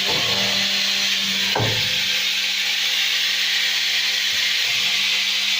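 CEHISA P-307 automatic edge banding machine running: a steady motor hum under a constant hiss, with one brief sharp sound about one and a half seconds in that drops quickly in pitch.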